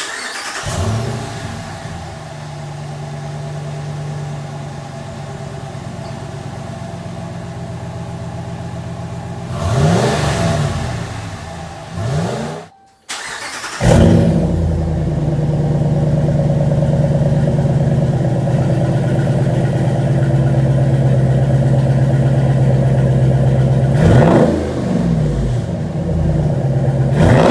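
Ram 1500's 5.7 L Hemi V8 running through a TotalFlow (Super 10-style) chambered muffler, idling with a few quick throttle blips. The sound cuts out briefly about halfway, then comes back louder, idling and blipped twice more.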